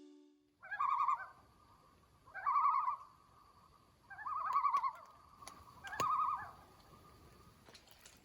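Common loon giving four short, quavering tremolo calls, evenly spaced about a second and a half apart.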